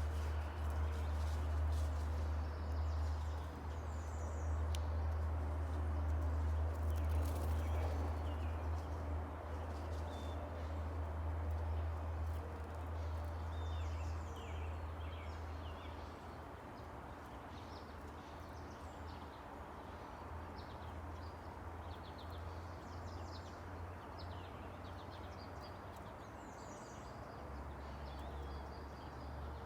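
Small birds chirping and calling at a feeder, short high notes scattered throughout, over a steady low rumble that eases off about halfway through.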